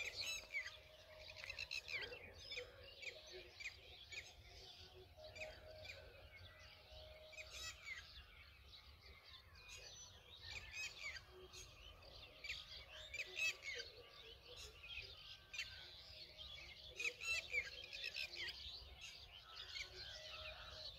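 Faint chirping of many birds, short calls overlapping one another.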